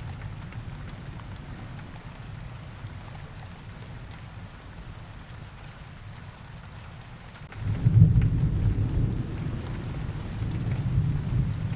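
Steady rain falling, with a low rumble of thunder that rolls in about eight seconds in and carries on through the last few seconds.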